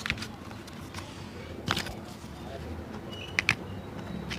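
Sharp taps and knocks from hand work on a shoe: one just after the start, one near the middle and a quick pair near the end, over steady background noise.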